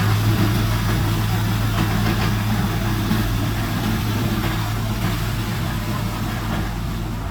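Heavy diesel engine of earthmoving equipment running at a steady speed, a constant low hum under broad mechanical noise, slowly getting a little quieter.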